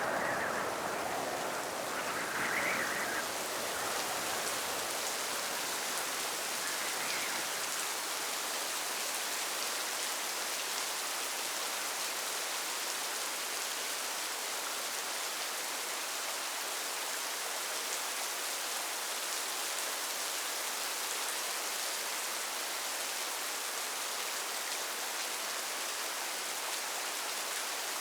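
Steady rain falling, an even hiss without change. A couple of brief swells stand out over it in the first three seconds, then fade.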